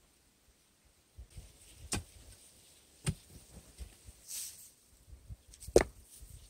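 Three sharp knocks a second or more apart, the last the loudest, with a brief scrape between them.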